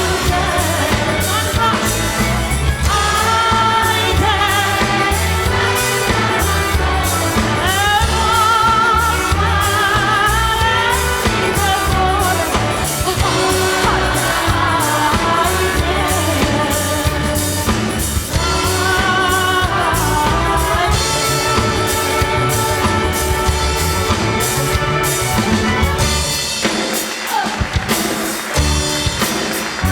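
A woman singing with vibrato, backed by a symphony orchestra and choir, with a steady pulse in the bass. The bass drops out briefly near the end.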